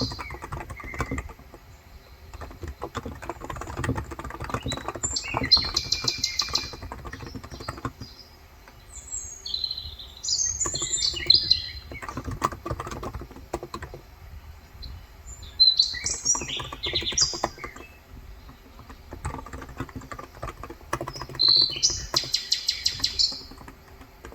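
Typing on a Cox Endeavor electro-capacitive keyboard with 35 g switches, keystrokes coming in quick runs with short pauses. Birds chirp in short bursts every few seconds.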